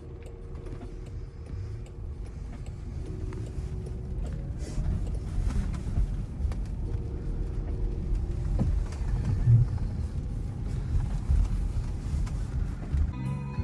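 Waymo driverless car on the move: a low road and tyre rumble that grows slowly louder, with faint steady hums and a few light clicks.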